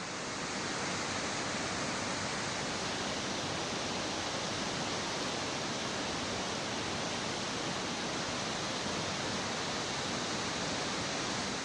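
Steady rushing of a waterfall, an even hiss of falling water with no change in strength.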